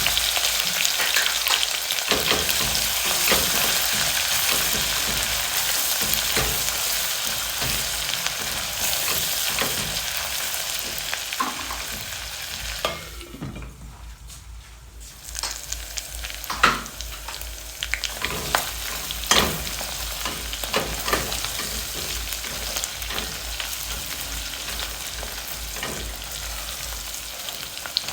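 Onions with a garlic and ginger mixture frying in vegetable oil in a cooking pot, sizzling steadily, with scattered clicks and scrapes of stirring. The sizzle drops briefly about halfway through.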